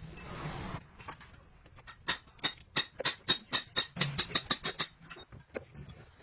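A short hiss, then a rapid run of sharp, ringing metal clinks, about four a second, of metal tools and parts striking each other during truck rear axle bearing work.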